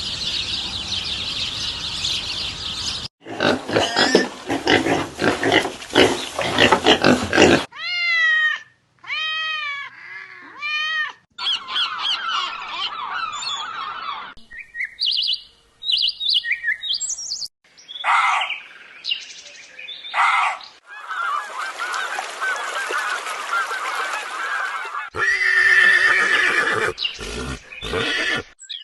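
A string of animal and bird calls cut one after another, including repeated arching honk-like calls and dense flock choruses.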